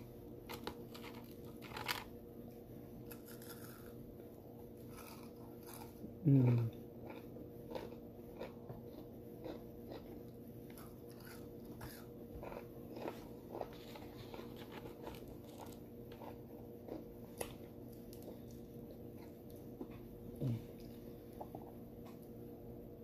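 Close-miked mouth sounds of a person chewing food, with soft clicks and smacks scattered throughout. There are two short falling hums of the voice, a loud one about six seconds in and a softer one near the end, over a steady low hum.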